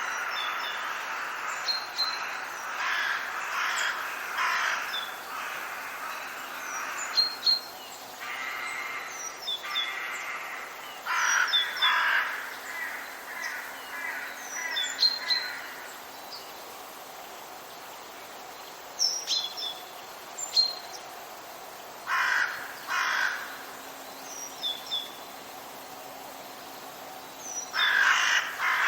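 Forest birds calling: harsh, cawing calls in short groups of several, with brief high chirps of small songbirds scattered between them.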